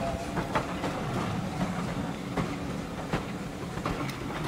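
Steam train's passenger coaches rolling past at low speed: a steady low rumble with sharp wheel clicks over the rail joints about once a second.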